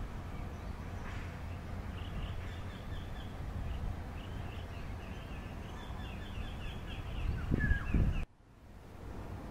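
Open-air ambience with a steady low rumble, over which a bird sings a run of quick, high, falling chirps. Near the end come a couple of low thumps, then the sound drops abruptly to a quieter rumble.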